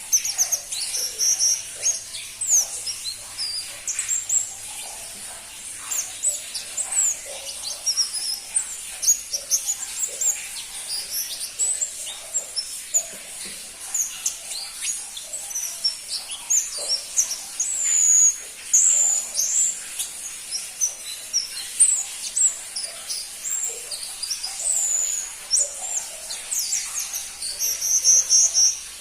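Pentis pelangi, a small flowerpecker, calling: a busy series of thin, high chirps and short whistled notes, some dropping or rising in pitch, coming in irregular quick clusters.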